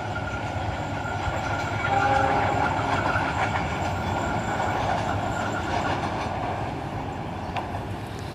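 Passenger train running on the rails: steady wheel-and-rail running noise with a rhythmic clatter, swelling slightly about two seconds in.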